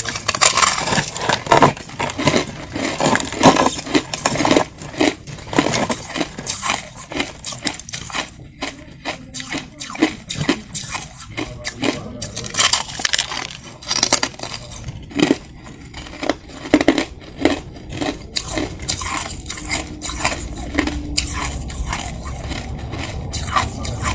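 Soft white crushed ice crunching and crackling in quick, irregular sharp clicks, dense for the first several seconds and then sparser.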